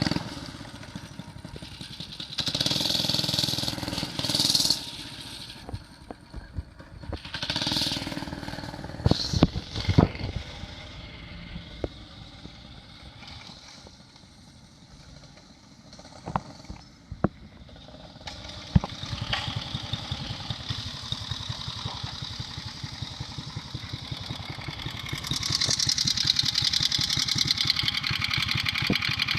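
Scraping, rustling and a few sharp knocks. About 19 seconds in, a small kart or minibike engine starts running with a fast, steady putter, and it gets louder from about 26 seconds.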